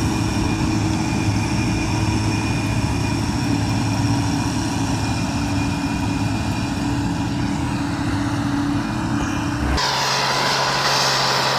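Tractor engines running steadily. About ten seconds in, the sound switches abruptly to another engine running at a slightly different pitch.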